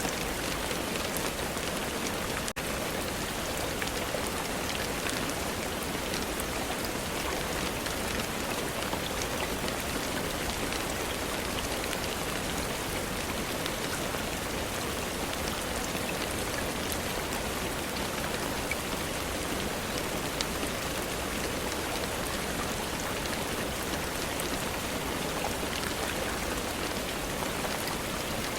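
Steady rain falling, an even hiss with scattered fine drop ticks. There is a split-second dropout about two and a half seconds in.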